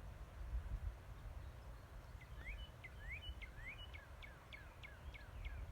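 A songbird singing a quick run of repeated chirps, about four a second, starting about two seconds in, over a steady low rumble.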